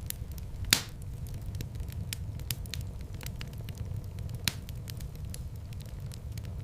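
Wood fire crackling in a fireplace: a steady low rumble with scattered small crackles, and two louder pops, one about a second in and one about two-thirds of the way through.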